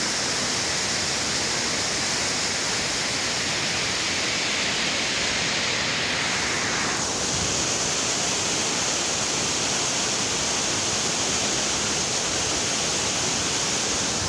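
Waterfall: a steady rush of falling water, with a slight change in its tone about halfway through.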